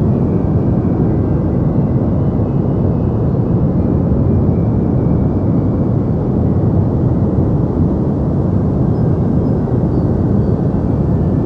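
Deep white noise: a steady, unchanging low rumbling hiss with little treble.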